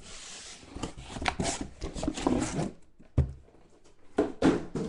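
Rustling and scraping of packaging as a sealed trading-card box is unwrapped and handled, with a dull thump about three seconds in.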